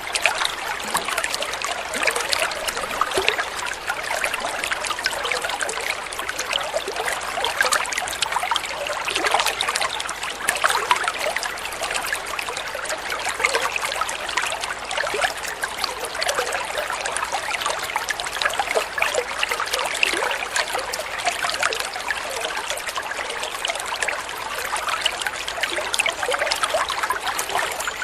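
Flowing water trickling and babbling steadily, a continuous splashy patter with no pauses.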